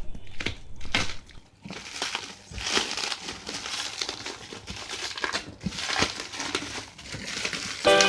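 Packaging of a mixer grinder being opened by hand: irregular crinkling and rustling with occasional tearing and small clicks. Music comes in just before the end.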